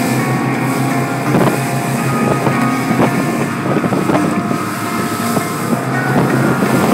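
Formula 357 powerboat under way in rough water: engine and wind noise, a few short knocks, and music from the boat's radio.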